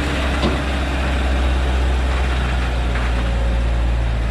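Thaco truck's diesel engine running steadily with a deep, even hum.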